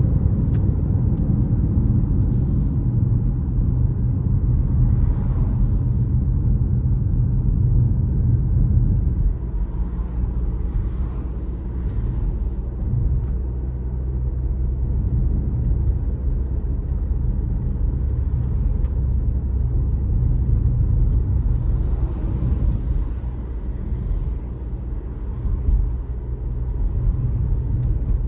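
A car driving on a road: a steady low rumble of engine and tyres, which eases off a little about nine seconds in.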